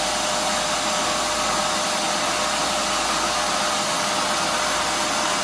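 Total TVC1412 800 W wet and dry vacuum cleaner running steadily while vacuuming a rug with its carpet brush attachment: a loud even rush of air with one constant whine in it.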